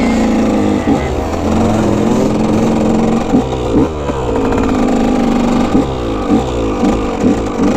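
125 cc two-stroke dirt bike engines revving as the bikes ride off, the pitch holding and then repeatedly climbing and dropping in a string of short rises in the second half.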